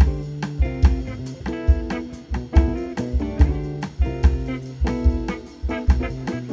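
Instrumental jazz played live by a small band: electric guitar chords over a walking bass line and drum kit, with regular drum hits.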